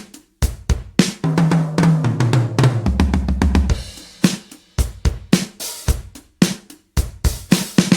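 Toontrack EZdrummer 3 sampled acoustic drum kit playing a beat of kick, snare and hi-hat. From about one to four seconds in, a fast tom fill steps down in pitch, from the high toms to the floor tom, before the beat resumes and then cuts off at the very end.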